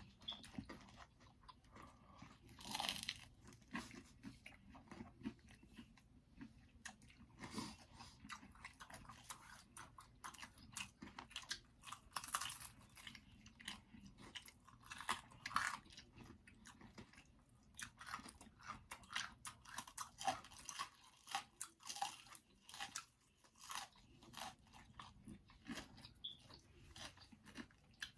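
Close-up chewing and biting of pizza, with many short, irregular crunching crackles.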